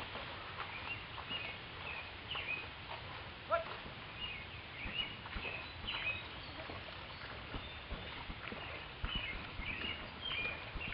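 Small birds chirping with short, repeated high notes scattered throughout, one louder call about three and a half seconds in, over a steady outdoor hiss.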